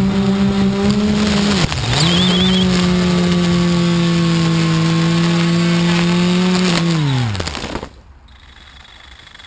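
HB8 580 mm multirotor drone's electric motors and propellers humming steadily. The hum dips briefly with a click about two seconds in and comes back, then winds down in pitch and stops near the end as the motors spin down.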